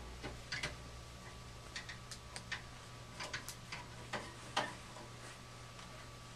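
Irregular, scattered clicks and clinks of hand tools and metal furnace parts being handled as the burners are removed from the gas furnace, over a faint steady hum.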